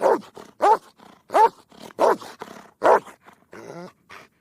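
A dog barking five times at an even pace, about one bark every 0.7 seconds, followed near the end by a softer, longer call.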